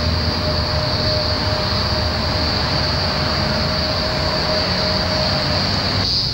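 Diesel coal train hauled by 48 class locomotives running close by: a low engine hum under steady rolling wheel noise, with a thin high wheel squeal that stops near the end. The rolling noise cuts off abruptly just before the end.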